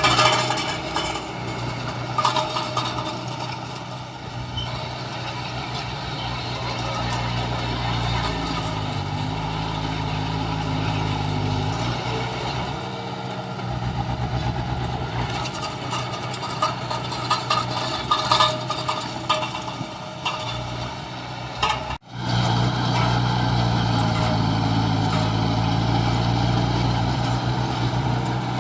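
Heavy diesel engines of earthmoving machinery running steadily, the engine note shifting lower for a few seconds partway through. The sound cuts out sharply for a moment about 22 seconds in, then the engine carries on.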